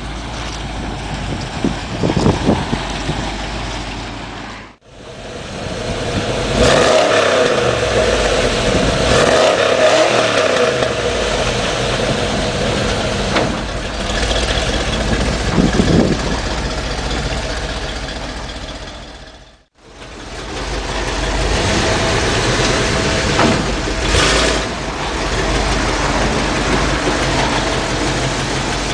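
1979 Dodge Power Wagon pickup's engine running and being revved, the pitch rising and falling several times. It comes in three stretches, broken by two brief silences about five and twenty seconds in.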